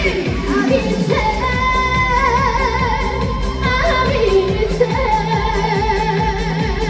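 Trot song performed live over a PA system: a female voice holds long notes with a strong wavering vibrato over a band backing track with a steady beat.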